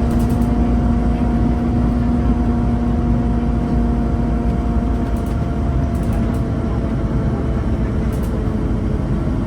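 Scania N230UB Omnicity single-deck bus's diesel engine running under way, a steady low rumble with a whine held on one pitch; the whine fades over the last few seconds.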